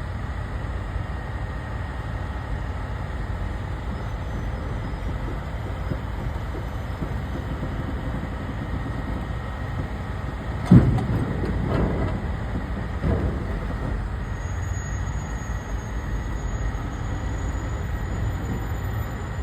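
Heavy truck engine running with a steady low rumble. About eleven seconds in there is one sharp bang, followed by two or three weaker knocks.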